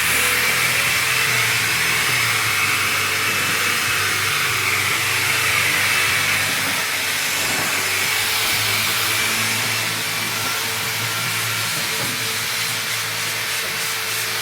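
Steady, fairly loud hissing noise with a low hum beneath it, easing a little about ten seconds in.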